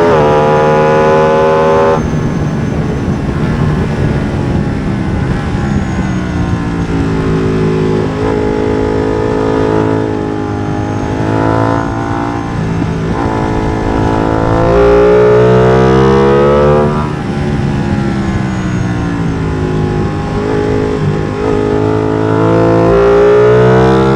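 Ducati Streetfighter V2's 955 cc V-twin on a MIVV exhaust with the dB killer removed, ridden hard on track. It runs high, drops sharply about two seconds in, then revs up in repeated rising sweeps with short dips between them as the gears change, easing off and pulling hard again several times.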